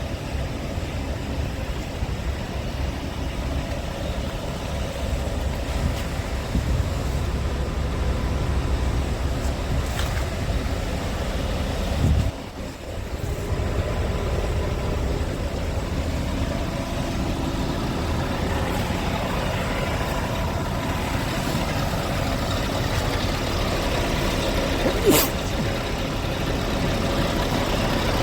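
Scania R580's V8 diesel engine running steadily. About twelve seconds in there is a brief loud peak, then the sound drops off suddenly for a moment. A sharp click comes near the end.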